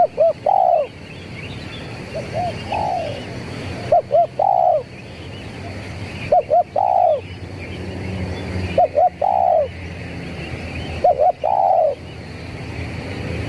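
Spotted dove (tekukur), a trained decoy bird, cooing a three-note phrase about every two seconds: two short coos and then a longer drawn-out one, six times over.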